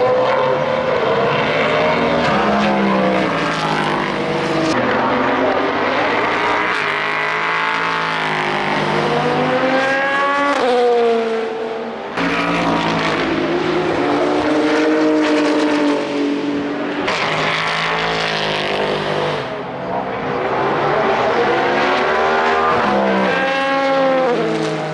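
Race car engines on track, several cars one after another and overlapping, their pitch climbing through the revs and falling away as they pass.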